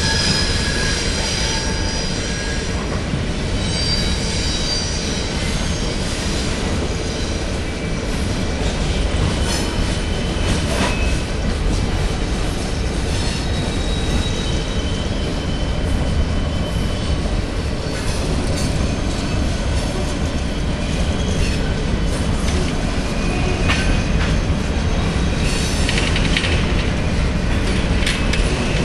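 Freight train cars, mostly covered hoppers, rolling slowly through a curve with a steady low rumble of wheels on rail. High-pitched wheel flange squeal comes and goes, with a few sharp clicks from the wheels.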